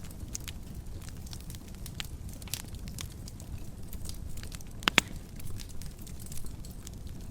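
Wood fire burning in a fireplace, with a steady low rumble and scattered crackles, and a sharp double pop about five seconds in.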